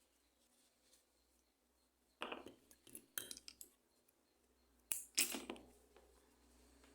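Small hard objects handled on a table: a few short clinks and rustles about two seconds in, and again around five seconds.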